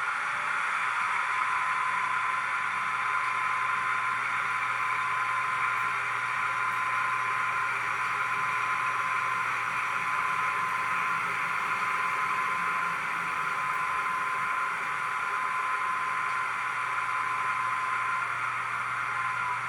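Sound-decoder recording of a DR class 211 diesel-hydraulic locomotive, played through a TT-scale model's small loudspeaker: the engine runs steadily. A thin, steady high whine sets in shortly after the start and stops just before the end.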